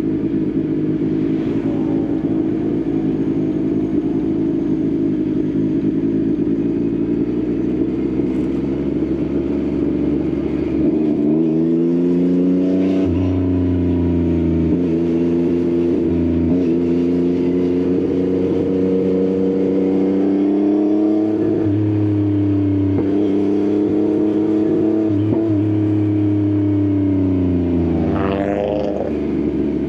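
Yamaha XSR900's inline-three engine through an Akrapovič exhaust, running steadily under way. The engine note climbs in pitch about eleven seconds in and holds, then dips and sweeps up again near the end.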